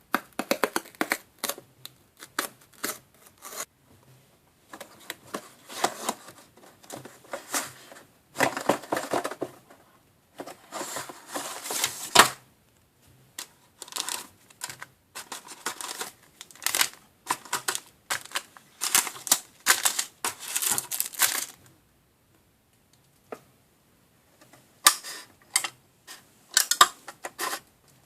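Packaging and small plastic parts of a DIY candy kit being handled: irregular bursts of crinkling, rustling and clicking, with a pause of about two seconds near the end.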